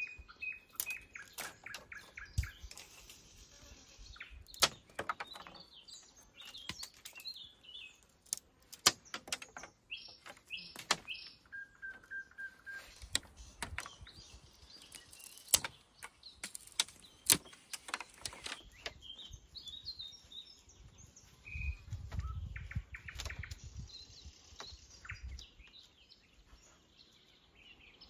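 Small songbirds chirping and trilling on and off, with sharp clicks and knocks scattered throughout. A low rumble comes about three quarters of the way through.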